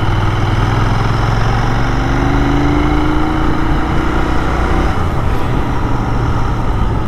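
Royal Enfield Continental GT 650's 648 cc parallel-twin engine running steadily at road speed, under a steady rush of wind and tyre noise. Between about two and five seconds in, a tone rises slowly in pitch over it.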